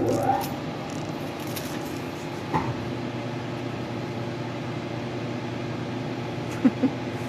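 Machine-tool motor spinning up and then running at a steady hum, with a couple of faint clicks.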